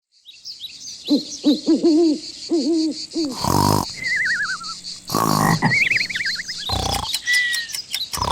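Cartoon sound effects: a string of short hooting calls, then wobbling whistles that slide down in pitch, broken by short noisy whooshes.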